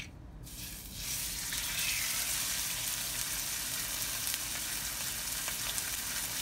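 Yellowfin tuna steak laid into a very hot oiled skillet and searing: a steady sizzle that starts about half a second in and builds over the first second.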